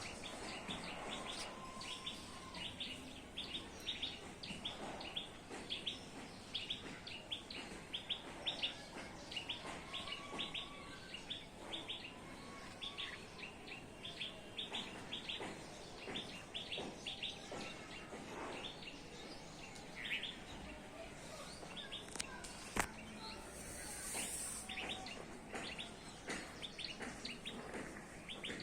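Many small birds chirping, a dense, continuous chorus of short, high, rapid chirps, with a few longer, lower calls among them. A single sharp click comes about three-quarters of the way through.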